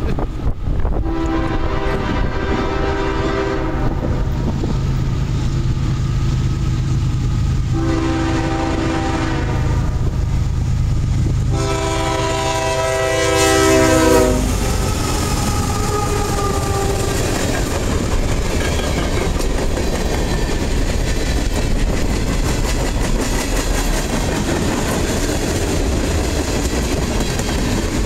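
CSX ES40DC diesel locomotive 5282 leading a freight train, sounding long horn blasts about a second in, around eight seconds in and around twelve seconds in, the last the loudest as the locomotive passes close by. The locomotive's engine rumbles underneath, and after it passes the freight cars roll by with a steady clickety-clack of wheels over the rails.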